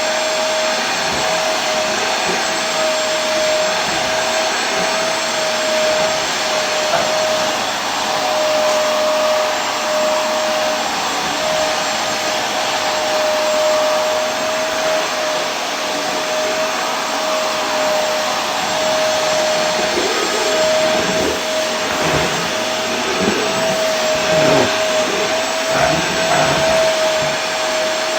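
Vacuum cleaner motor running steadily: a constant rush of air with a steady mid-pitched whine over it.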